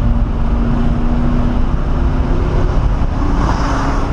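1997 SVT Cobra Mustang's V8 engine running at speed on track, heard inside the cabin over heavy road and wind rumble. Its note drops away a little past halfway and comes back at a slightly higher pitch.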